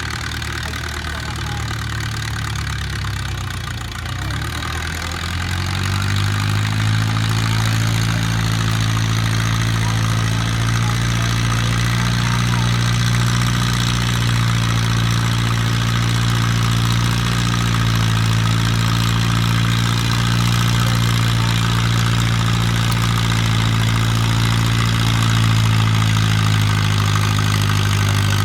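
Antique tractor engine running: its pitch rises about four to six seconds in as it revs up, then holds steady at the higher revs.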